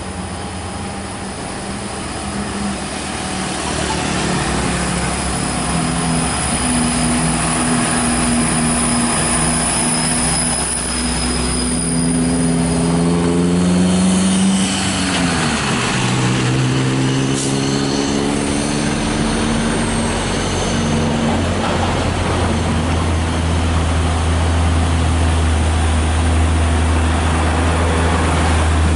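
Heavy diesel truck engine running under load, with a stack of steady engine tones. About halfway through the pitch drops sharply, then climbs again.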